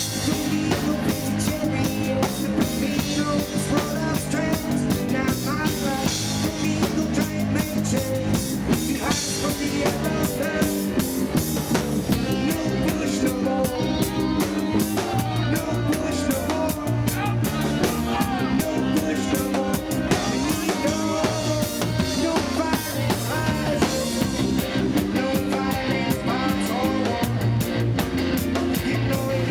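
Roots reggae band playing live, with a drum kit and bass carrying a steady groove under the guitar.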